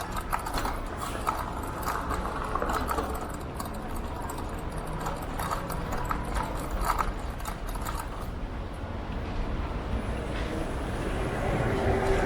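Riding an electric scooter: a steady rumble of wind on the microphone with irregular clattering knocks, such as the scooter rattling over an uneven road.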